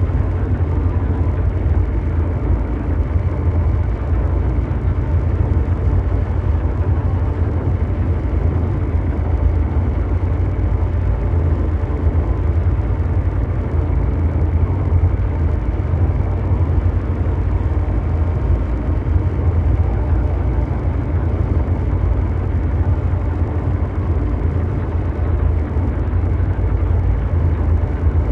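Ambient mechanical drone noise: a deep, steady, engine-like rumble with a fainter hiss above it, unchanging throughout.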